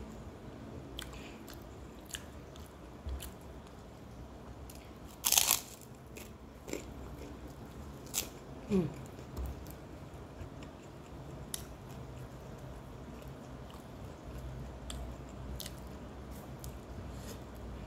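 A person chewing and eating rice and fried food by hand, with small mouth clicks and smacks scattered throughout and a louder crunch about five seconds in.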